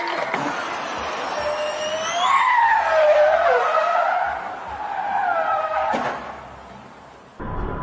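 Car tyres squealing in a skid, a screech that wavers up and down in pitch for several seconds, with a short sharp knock about six seconds in.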